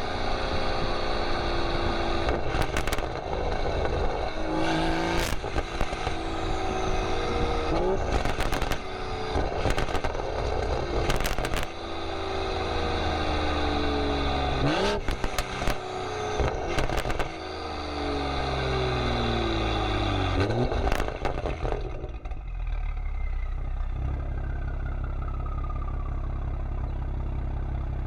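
BMW M340i's B58 turbocharged straight-six through a Valvetronic valved exhaust: the revs fall away on the overrun with repeated pops and crackles, and a few times rise sharply in quick blips. Over the last several seconds it settles into a steady low drone.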